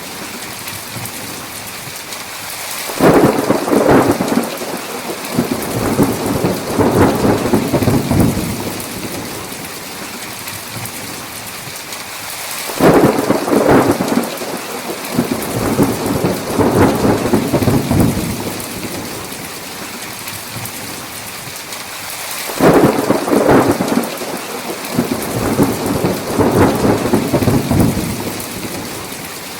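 Heavy thunderstorm: steady rain with three rolls of thunder, each starting suddenly and rumbling on for about five seconds before dying back into the rain.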